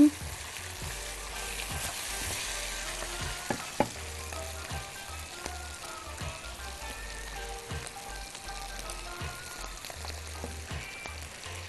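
Small pieces of liver and orzo frying in tomato paste in a heavy pot, sizzling steadily as they are stirred. A couple of sharp clicks of the utensils come about three and a half seconds in.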